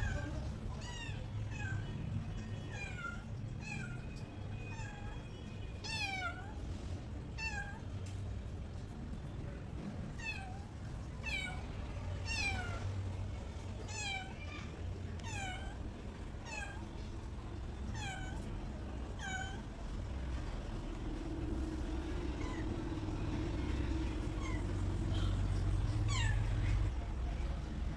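Cat meowing over and over in short, falling calls, roughly one a second, thinning out after about twenty seconds, over a low background rumble.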